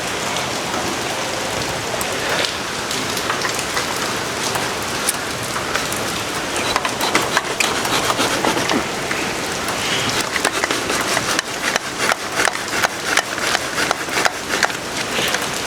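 Steady rain falling, with scattered knocks and clicks that come thicker in the second half.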